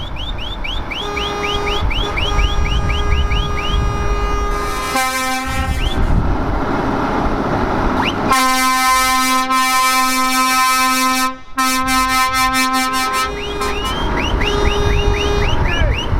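Truck air horns sounding over the low rumble of truck engines: a rapid string of short rising chirps for the first few seconds, then a long, loud, steady horn blast from about halfway through, broken once briefly, with more chirps near the end.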